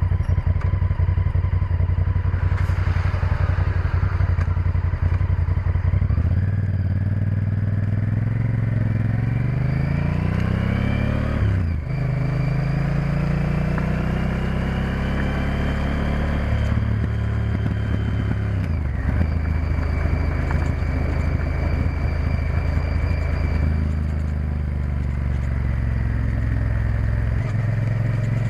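Honda Varadero XL1000's V-twin engine under way: the revs climb steadily for several seconds, drop sharply at a gear change about twelve seconds in, rise again, and fall once more about nineteen seconds in before holding steady. An oncoming lorry passes in the first few seconds.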